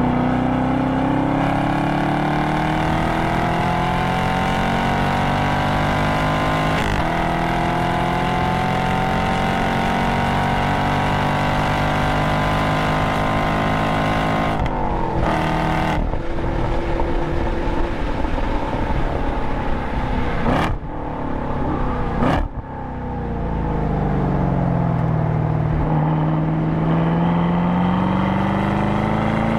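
A Camaro SS 1LE's LT1 V8, heard from inside the cabin, pulling hard at full throttle, its pitch rising steadily toward about 135 mph. The driver then lifts and brakes, with two quick throttle blips on the downshifts. The engine drops low through a slow corner and revs back up as it accelerates out.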